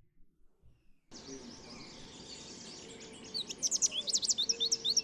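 Field recording of an American goldfinch song: a rapid series of high notes with many up-and-down pitch changes, starting about two seconds after a steady background hiss comes in.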